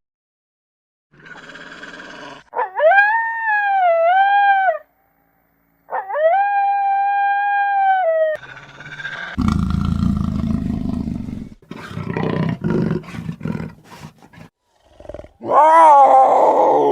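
A sequence of animal calls. First come two long, steady, high-pitched howling calls, each about two seconds. Then several seconds of rough, low, growling sound follow, and another howling call begins near the end.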